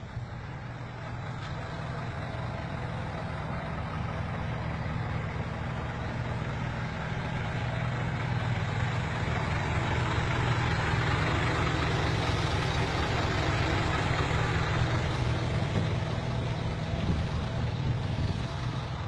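Heavy truck's diesel engine running steadily, growing louder over the first half and then holding.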